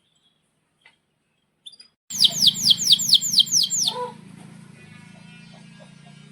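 Male domestic canary singing: a couple of faint chirps, then from about two seconds in a loud run of fast descending whistled sweeps, about five a second, followed by a quieter rapid trill over a low steady hum.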